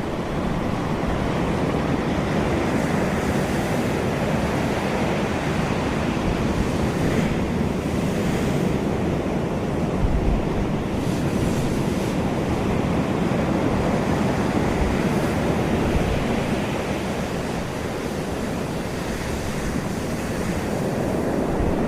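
Sea waves surging and breaking in a steady rush that swells now and then, with wind buffeting the microphone.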